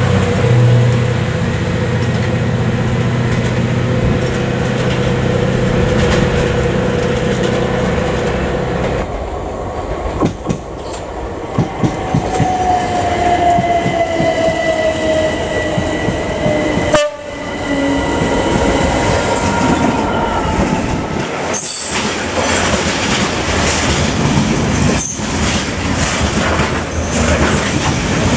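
A yellow rail track maintenance machine's diesel engine runs steadily as it moves off. After a sudden change about nine seconds in, a Southern electric multiple unit passes with a slowly falling motor whine. From about seventeen seconds, a long rake of yellow open ballast wagons rolls past close by, with wheel rumble and clattering knocks over the rail joints.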